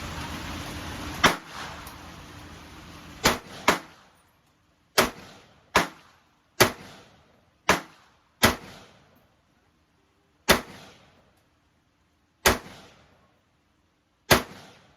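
Eleven gunshots fired at an uneven pace, some singly and some in quick pairs, each a sharp crack with a short fading tail.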